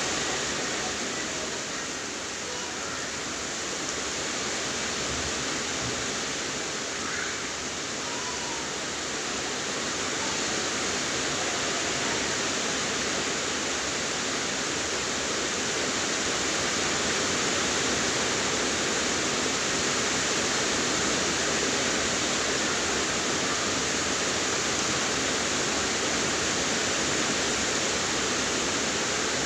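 Steady rain falling, a dense even hiss that grows a little louder in the second half.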